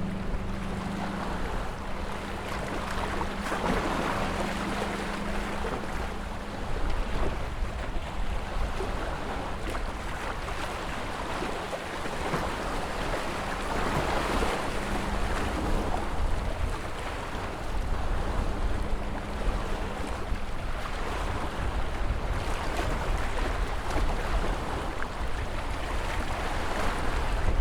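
Ocean waves breaking and washing ashore, rising and falling in swells every several seconds, over a low rumble of wind on the microphone.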